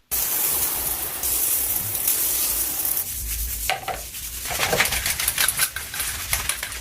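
Household cleaning sounds: a steady hiss for about three seconds, then a run of quick clicks and scrapes as items are handled and scrubbed.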